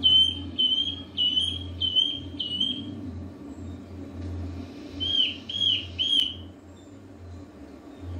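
A bird calling: a run of five short whistled notes, about two a second, then after a pause three louder whistles that hook downward, over a low steady hum.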